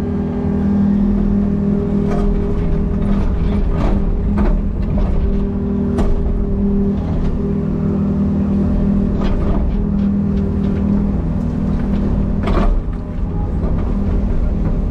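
Excavator's diesel engine running steadily, with scattered sharp knocks from the machine at work.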